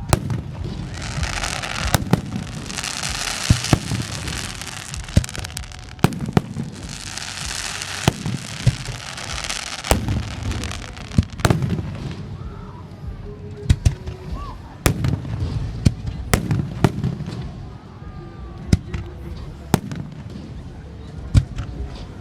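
Fireworks display: aerial shells bursting in repeated sharp booms throughout, with two long stretches of hissing crackle, about one to five seconds in and again from about seven to ten seconds in.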